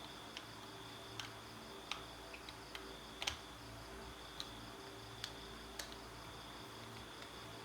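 Light, sharp clicks and taps, about ten of them at irregular intervals, the loudest a little over three seconds in, over a faint steady high whine and a low hum.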